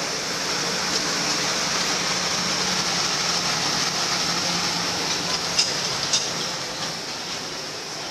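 Wildlife Express Train's steam locomotive and open-sided coaches rolling past a station platform: a steady rolling noise with a low hum, two sharp clicks about two-thirds of the way through, and the sound easing off toward the end.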